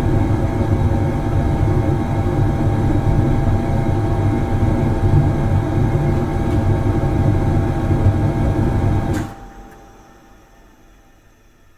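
Industrial factory machine running with a steady, loud drone made of several constant tones over a heavy low rumble. It stops abruptly about nine seconds in, leaving only a faint fading residue.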